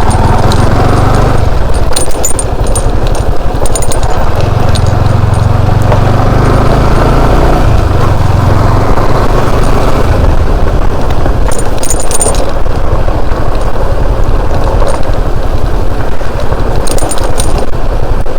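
Motorcycle engine running steadily under way on a rough unpaved track, with heavy low road and wind rumble. A few brief crackles and rattles come through now and then.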